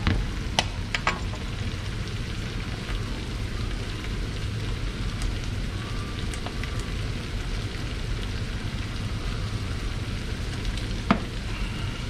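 Chopped onions and garlic frying in oil in a wide metal wok, a steady sizzle. A metal ladle clinks against the wok a few times in the first second and once more near the end.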